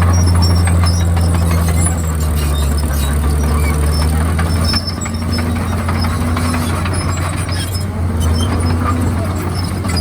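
Komatsu bulldozer's diesel engine running with a steady low drone that eases off a little about five seconds in. Short high squeaks come from the working machine over it.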